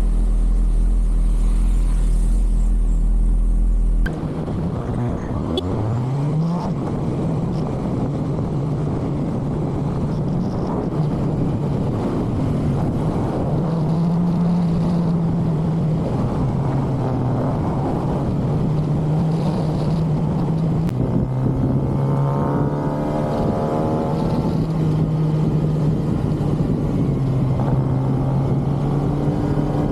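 A Kawasaki ZX-6R's 636 cc inline-four engine with its stock exhaust, heard while riding over rushing wind noise. The engine note rises and falls with the throttle and gear changes, with a quick rising rev about six seconds in. There is a steady low hum before an abrupt change about four seconds in.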